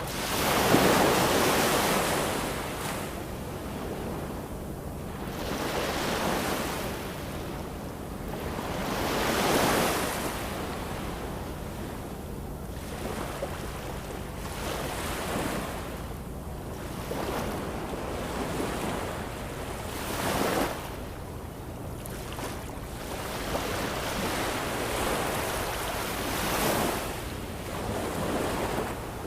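Ocean waves breaking and washing on the shore in a steady rush of surf. About six swells break, each a few seconds apart, and the first, about a second in, is the loudest.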